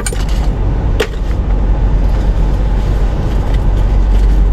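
Steady low rumble of a car idling, heard from inside the cabin. Two sharp clicks, one right at the start and one about a second in.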